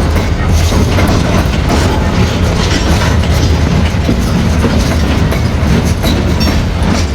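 A train running on the rails: a loud, steady low rumble with scattered clicks from the wheels.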